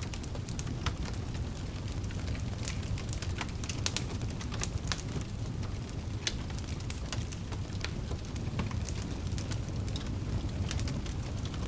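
Wood fire in a fireplace crackling and popping with irregular sharp snaps over a steady low rumble of burning.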